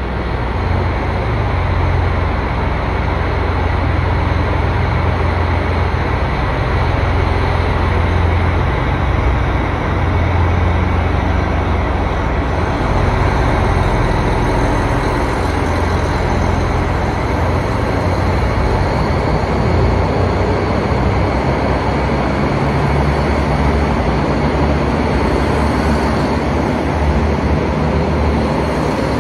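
Express train departing: a steady, loud rumble of the train's running gear and motors as the cars pull out past the platform.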